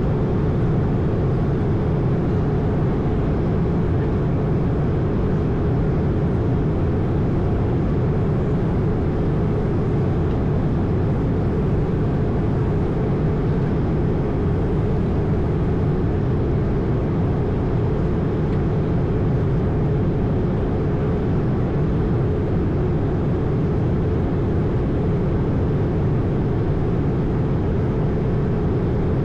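Steady in-flight noise inside an Airbus A220's cockpit: the rush of airflow and the drone of its Pratt & Whitney PW1500G geared turbofans, heaviest in the low end and unchanging.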